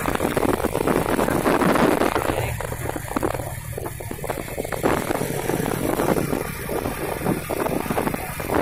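Heavy truck engine running with a steady low rumble, under a rough noisy haze.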